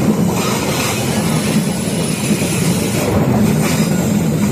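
Train running on the track: a steady, loud rumble of wheels on rails.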